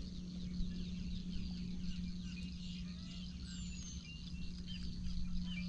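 Many small birds chirping and calling, with a high descending whistle about three and a half seconds in, over a steady low hum.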